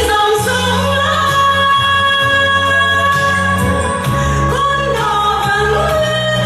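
A song performed with a backing band: a singer holding long notes that change pitch every second or two over a steady bass accompaniment.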